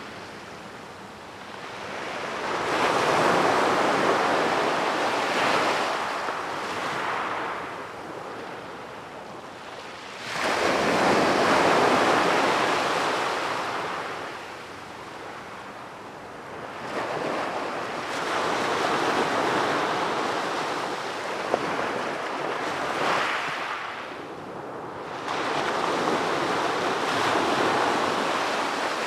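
Ocean waves breaking on a beach, the surf swelling and ebbing in about four slow surges, with some wind noise on the microphone.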